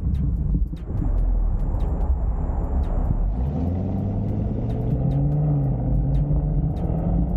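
Car engine running with a deep rumble, its note climbing about halfway through.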